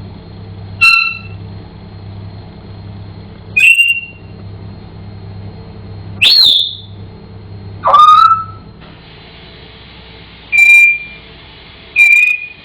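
African grey parrot whistling: six short, high whistles a couple of seconds apart, each opening with a quick sweep before settling on a high note. A low steady hum runs underneath and stops about two-thirds of the way through.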